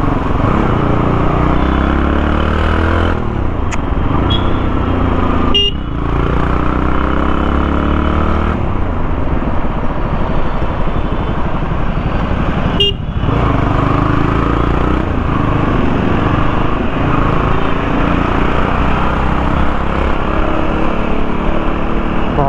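Motorcycle engine running under way with wind on the microphone, its revs rising and falling with gear changes; the engine note breaks off briefly twice.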